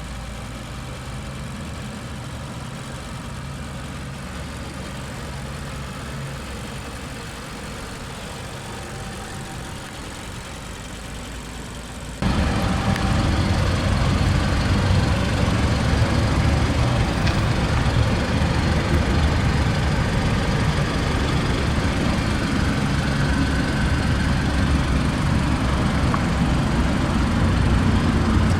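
Mazda CX-5's 2.5-litre inline-four engine idling steadily. About twelve seconds in, the sound jumps abruptly louder and fuller and stays that way.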